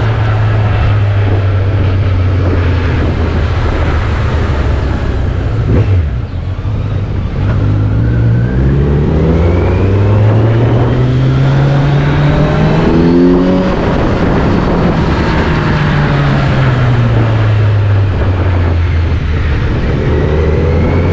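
Engine of the vehicle being driven, running steadily, then briefly dropping off about six seconds in. It rises in pitch as the vehicle accelerates, then falls back as it slows and settles to a steady run.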